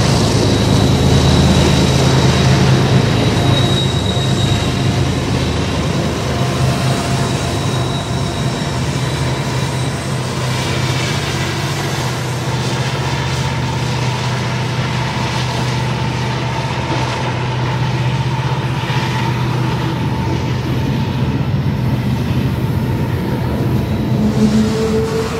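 Full-size freight train rolling by: a steady low drone with thin, high wheel-squeal tones over it. The track has been laid over the model train rather than recorded from it.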